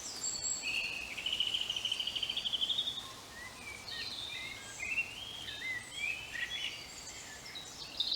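Wild birds singing: a long, rapid trill in the first few seconds, then a run of short chirps and warbled phrases from several birds.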